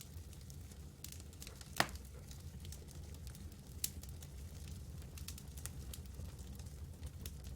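Campfire crackling: scattered small snaps and pops over a low, steady rumble, with one louder pop a little under two seconds in.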